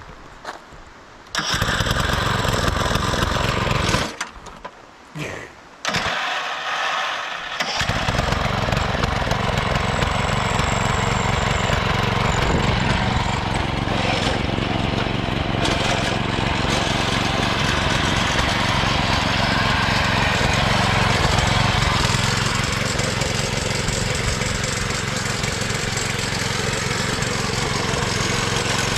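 Small lawnmower engine of a home-built race mower, electric-started, catching and running for a couple of seconds, dying out, then started again about six seconds in and running steadily.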